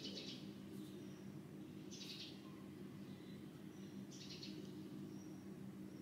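Faint birds chirping, short high calls every second or two, over a low steady hum.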